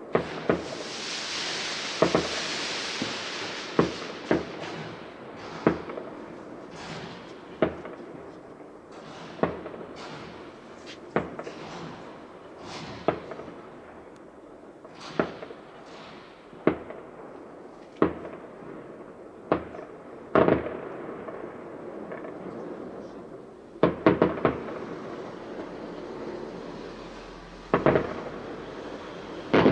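Fireworks display: aerial shells bursting with sharp bangs at an irregular pace, about one or two a second, each trailing off in an echo, over a crackling hiss of burning effects that is strongest in the first few seconds.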